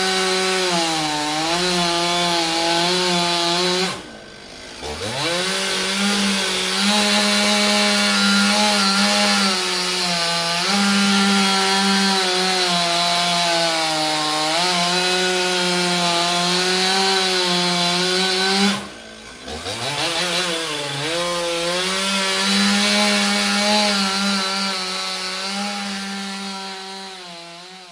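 Chainsaw running at high revs with a slightly wavering pitch. Twice, about 4 and 19 seconds in, it drops off suddenly and then revs back up. It fades out over the last few seconds.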